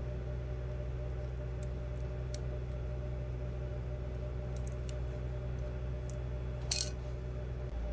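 Scattered light clicks and taps of small hard parts being handled, with one sharper click near the end, over a steady low hum.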